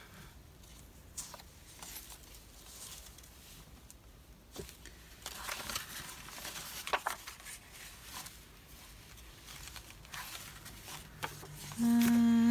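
Paper scraps being handled: quiet rustling and crinkling with small taps, busier around the middle. Near the end a loud, steady hum lasting about a second.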